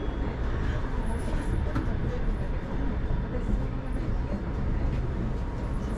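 Steady low rumble and hum inside a Shonan Monorail car, a suspended monorail, with a few faint ticks from the car.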